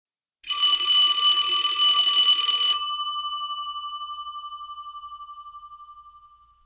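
Alarm bell sound effect: a bell rings rapidly for about two seconds, then stops and rings out, fading away over the next few seconds.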